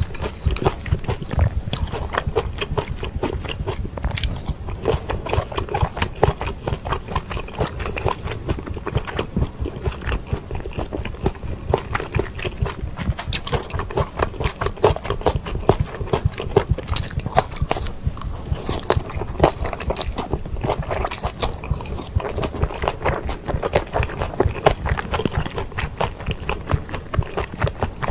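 Close-miked chewing of spicy stir-fried wide glass noodles: a dense, continuous run of wet mouth smacks and clicks, several a second.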